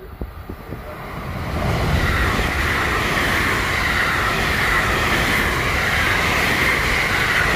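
Electric commuter train passing through the station at speed without stopping. It grows from about a second in to a loud, steady rush of wheels on rail, with a high tone running through it.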